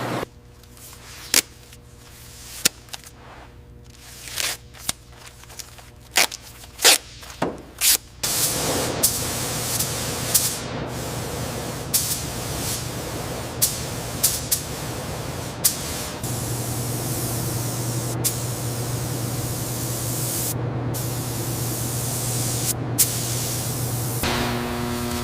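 Paint spray gun hissing steadily, preceded by about eight seconds of scattered sharp clicks; a few clicks continue over the hiss, and a low hum joins about two-thirds of the way through.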